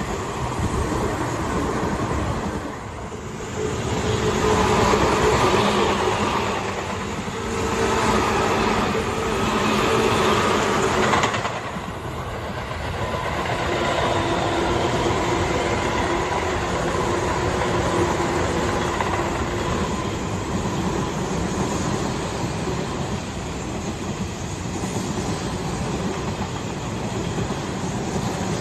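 A Tobu Tojo Line electric train passes, its wheels clattering on the rails. It is loudest for a few seconds early in the stretch, then settles to a steadier running noise with a faint tone over it.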